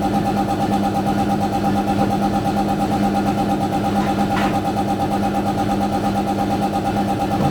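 A machine motor or engine running steadily at an even speed, with a brief clink about four seconds in.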